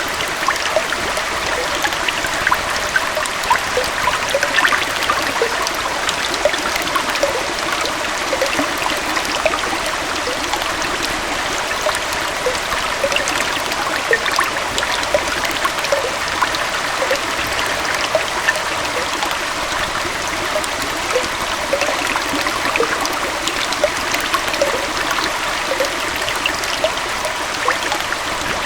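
Small waterfall and stream running water, a steady rush of flowing water with many small splashes and gurgles throughout.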